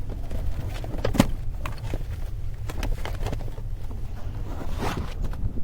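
Scattered clicks and knocks of items being handled and moved around in a car, the sharpest about a second in, over a steady low rumble.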